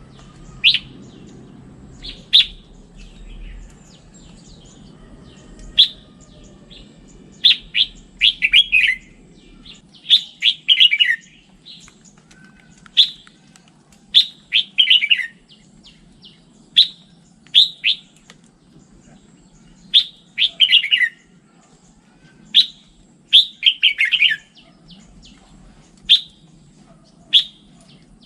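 Red-whiskered bulbul singing: short, bright whistled phrases of a few quick notes, many sweeping down in pitch, repeated every one to three seconds, with a faint low hum beneath.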